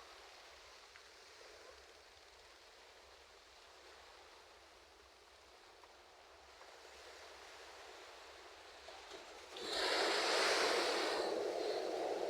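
Ocean surf: a soft, faint wash of water, then a wave breaks about nine and a half seconds in with a sudden loud rushing hiss that carries on to the end.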